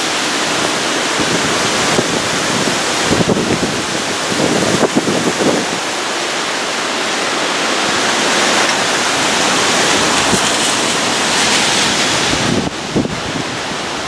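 Hurricane wind roaring as a loud, steady rush, with gusts buffeting the microphone about three and five seconds in.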